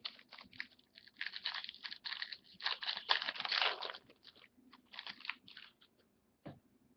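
Crinkling and crackling of a trading card pack's foil wrapper being handled and torn open, in uneven bursts that are loudest in the middle, followed by a single soft knock near the end.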